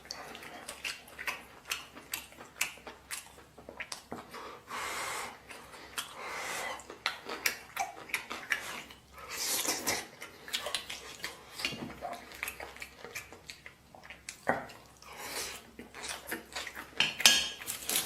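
A person eating braised pork stew close to the microphone: chewing and mouth sounds with many short clicks of utensils against dishes.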